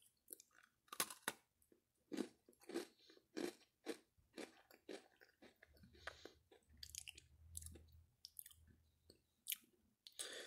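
Faint chewing of a crunchy Java Chip Oreo cookie: short, irregular crunches about two or three a second as the chocolate wafer is bitten and chewed.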